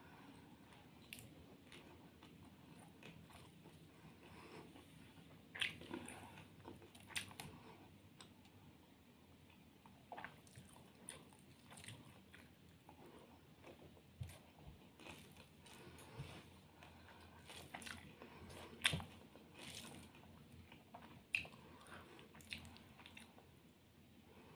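Close-up chewing and biting on small crisp-fried tilapia fish with rice: faint mouth sounds broken by irregular crunches, a few of them louder.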